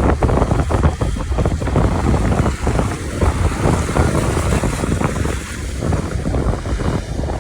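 Wind buffeting the microphone in a loud, gusty low rumble, over a hiss of rain and wet road traffic.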